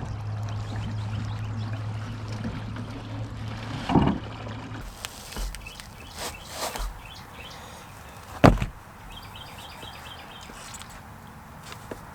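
A small boat on a pond: a steady low hum for the first few seconds, with a knock about four seconds in. After that come scattered hollow knocks, a loud thump a little past the middle and faint bird chirps.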